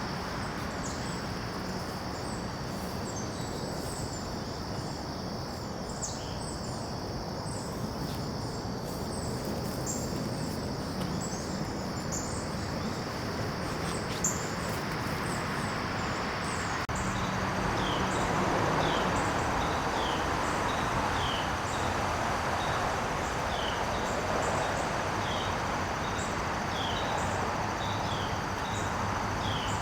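Garden ambience: a steady high insect drone and scattered bird chirps over a constant background hiss. About halfway through, the background shifts and a bird repeats a short falling call roughly once a second.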